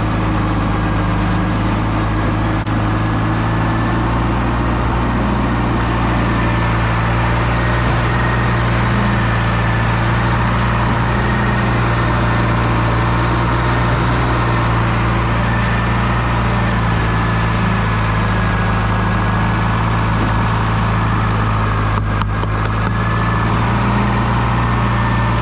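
A large engine running steadily at idle throughout. For the first six seconds a high-pitched electronic beep sounds over it: quick beeps that merge into a steady tone, the way a laser level receiver signals that it is on grade.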